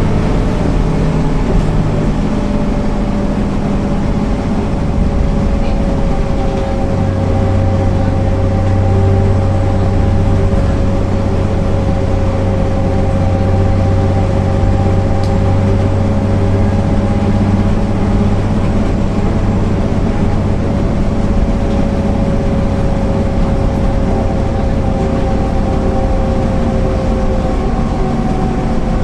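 MAN NL 262 city bus's diesel engine and drivetrain running at a steady pace, a constant drone with a held whine that falls slowly in pitch. A deeper hum strengthens about a quarter of the way in.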